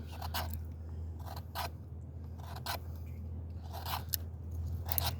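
Knife blade scraping shavings off a stick of fatwood (resin-soaked pine), in about seven short, irregular strokes.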